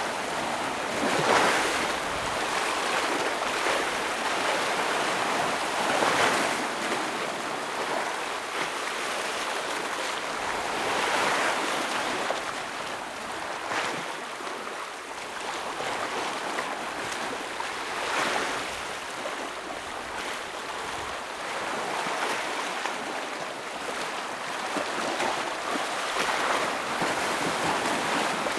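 Ocean waves breaking against rocks: a steady wash of surf with louder surges every few seconds as each wave hits.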